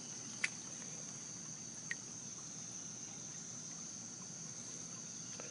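Insects singing in a steady, high-pitched drone, with two faint clicks.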